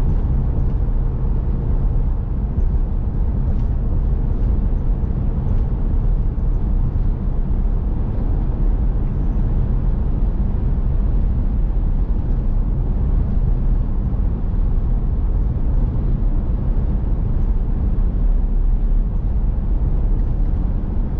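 Steady road and engine noise inside a moving vehicle's cabin: a low rumble from the tyres on the pavement with a constant engine hum.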